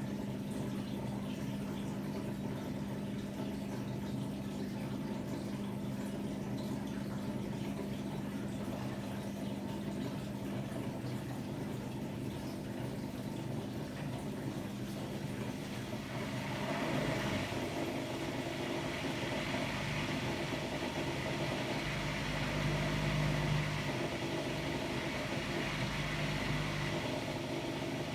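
Hotpoint-Ariston AQD972F washer-dryer running a cycle, its machinery giving a steady hum. About halfway through the sound grows louder and fuller, with a deep rumble for a few seconds near the end.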